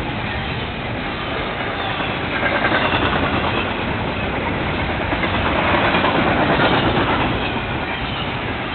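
Freight cars of a container train rolling past: a steady rumble and rattle of steel wheels on rail that swells louder twice.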